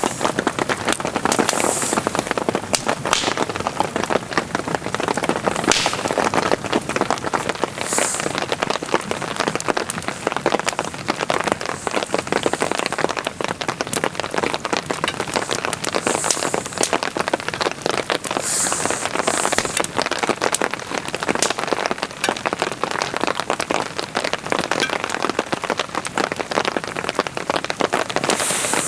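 Heavy rain falling, a steady dense patter of many drops striking a surface.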